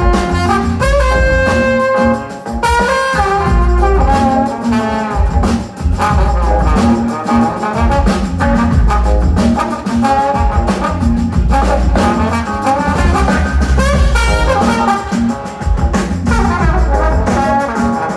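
Live band music: a horn section of trumpet, trombone and saxophones playing over drums, percussion and bass with a steady beat.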